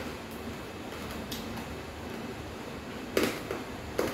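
Close-up chewing of crunchy fried rat bones: faint crunching and clicks, with two sharper crunches about three and four seconds in.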